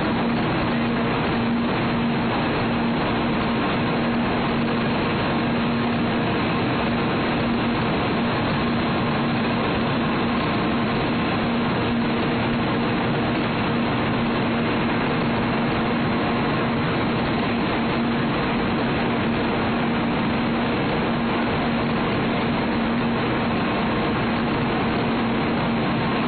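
N700 series Shinkansen train pulling out of the platform: a steady noise with a constant low hum that does not change in pitch or loudness.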